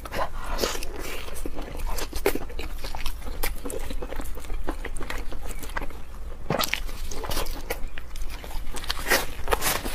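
Close-miked chewing and biting of soft, saucy braised pork, with wet mouth sounds and many short clicks throughout.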